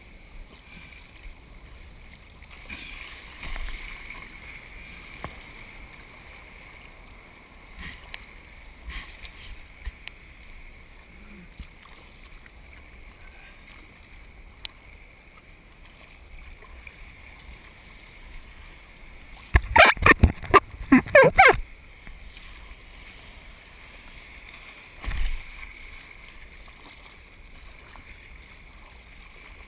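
Surf kayak out in the waves: a steady wash of water and wind, broken about twenty seconds in by a two-second cluster of loud splashes and knocks, with one more thump a few seconds later.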